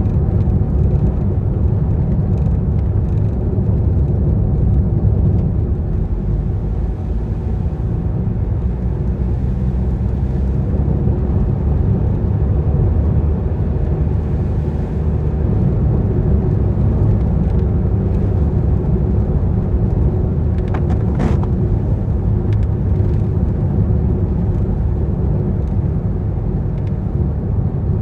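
Car driving on a wet road in rain: a steady low rumble of engine and tyres, with one short knock about three-quarters of the way through.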